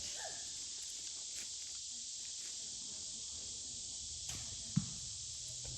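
A steady insect chorus: an even, high buzz. A faint click comes near the end, followed half a second later by a single short dull thump.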